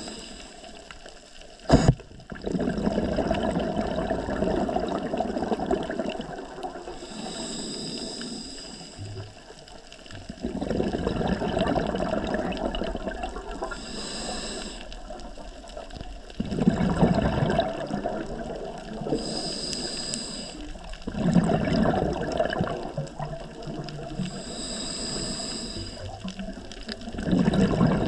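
Scuba diver breathing through a regulator underwater, in a steady cycle about every five to six seconds. A short high hiss of inhalation through the demand valve is followed by a burst of exhaled bubbles rushing and gurgling for a few seconds. A single sharp click comes about two seconds in.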